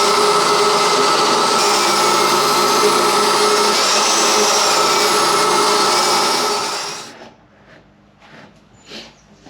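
Electric power tool running steadily at full speed, a loud motor noise with a high whine that wavers in pitch, then cutting out about seven seconds in, leaving a few faint knocks.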